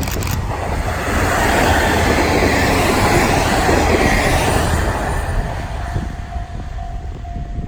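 KiHa 110 series diesel railcars passing close by, the rushing rail noise building to a peak a couple of seconds in and then fading away. A steady tone comes in near the end.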